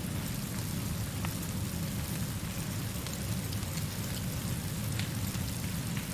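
Steady rainfall with a constant low rumble underneath and a few scattered faint ticks.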